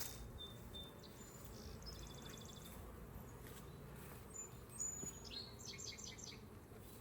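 Honeybees buzzing around an open, crowded hive, a faint steady hum. A small bird sings over it twice: a rapid trill about a second in, and a short run of high notes near five seconds.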